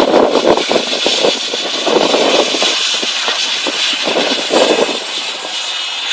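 Loud, steady rushing noise of a moving vehicle, a dense roar with small crackles through it.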